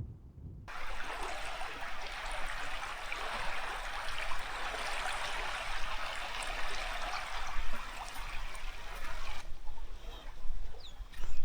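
Steady rushing of flowing water, a full even hiss that cuts in abruptly just after the start and cuts out abruptly near the end. A few short bird chirps follow.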